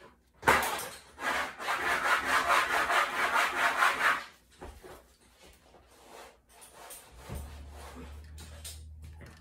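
Rapid back-and-forth scrubbing strokes on a hard surface during cleaning, about five strokes a second for roughly three and a half seconds. Later a faint steady low hum comes in.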